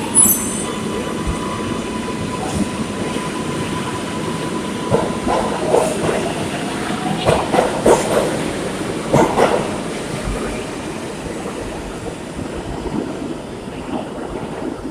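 Kawasaki R142A subway train running on the track: a steady rumble with a thin steady whine for the first few seconds, then a run of clicks and clatter over the rail joints around the middle, and the sound dies down toward the end.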